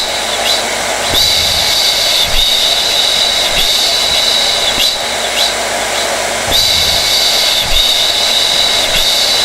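Hair dryer running steadily: a loud rushing blow with a high whine on top that drops away and comes back every few seconds.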